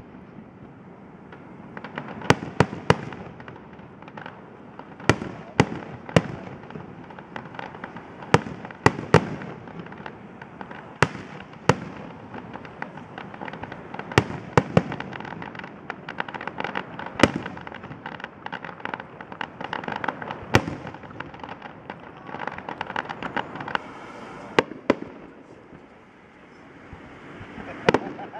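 Aerial fireworks display: repeated sharp bangs of shells bursting, often two or three in quick succession, over a steady crackle, with a short lull near the end.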